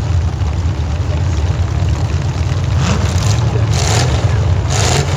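Demolition derby car engines running in a steady low rumble, with three short noisy bursts in the second half.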